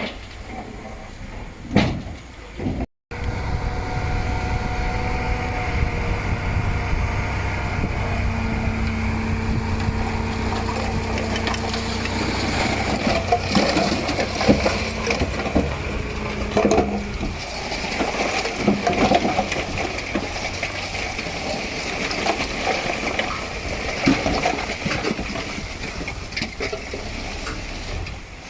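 Heavy diesel earthmoving machinery running with a steady engine drone and low rumble, with scattered clanks and knocks. The sound cuts out briefly about three seconds in.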